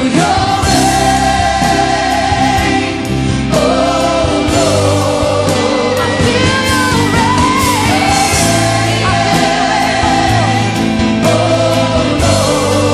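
Christian worship song: band accompaniment under sung, long-held notes that waver gently in pitch.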